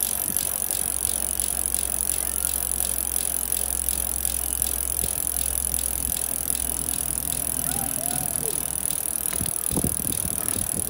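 A child's bicycle and a kick scooter rolling over asphalt: a steady rolling hiss and rumble, with a few knocks near the end.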